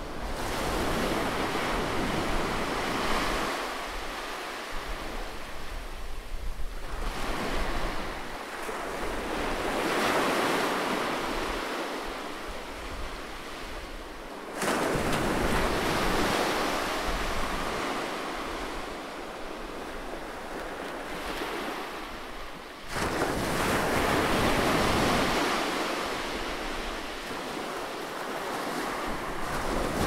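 Atlantic Ocean waves breaking and washing onto shore, a steady hiss of surf surging and easing every few seconds. The loudness jumps suddenly about halfway through and again about three quarters of the way through.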